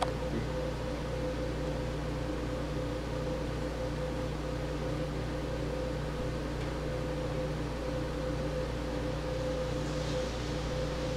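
Steady mechanical hum with a constant mid-pitched tone over a low drone and even hiss, unchanging throughout.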